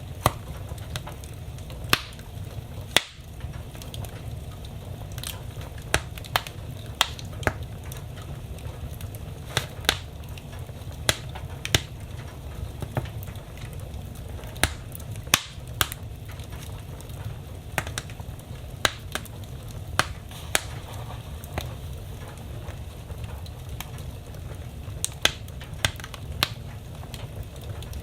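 Wood fire crackling in a fireplace: irregular sharp pops and snaps of burning logs, a few much louder than the rest, over a steady low rumble.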